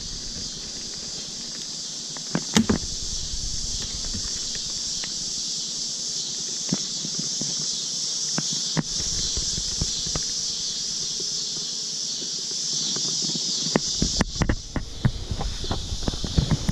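Steady high-pitched insect chorus, with scattered clicks and a burst of knocks and scrapes in the last few seconds from working the wooden beehive.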